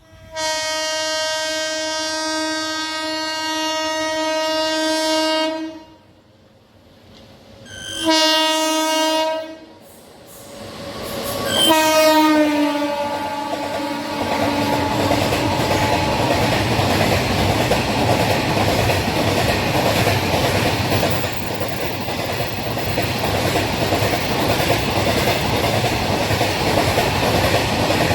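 Horn of a WAG-12 electric freight locomotive: a long blast of about five seconds, a short blast a couple of seconds later, then a third that drops in pitch as the locomotive goes by. After that comes the steady rumble and clickety-clack of the train's wheels passing on the rails.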